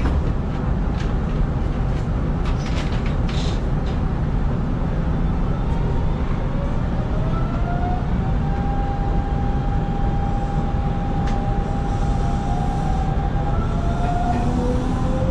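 Hanshin 5500 series electric train running on the track, heard from the cab: a steady low rumble of wheels on rails with a few clicks early on. A thin motor whine rises in pitch about halfway through and then holds steady.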